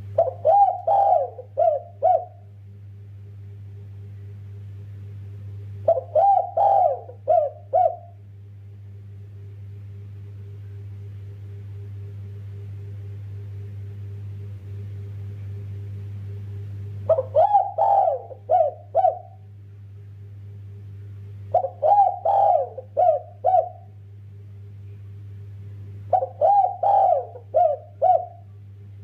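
Spotted dove (derkuku) cooing: five phrases of four or five notes, each about two seconds long, with gaps between them. A steady low hum runs underneath.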